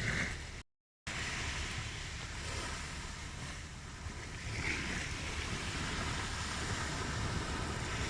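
Ocean surf washing steadily, with the sound cutting out completely for a moment just under a second in.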